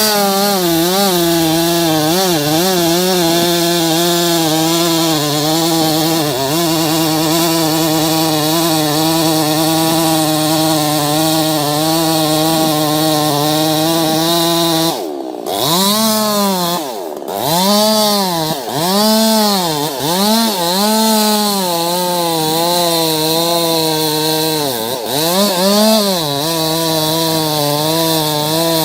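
Chainsaw running at high revs, holding a steady pitch for the first half. From about halfway the pitch dips and recovers over and over, roughly once a second, as the saw works under load, then it steadies again near the end.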